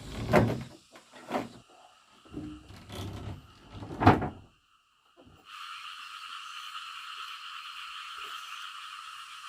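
A few heavy thuds, the loudest about four seconds in. Then, after a moment of quiet, a steady chorus of calling frogs sets in about halfway through and carries on evenly.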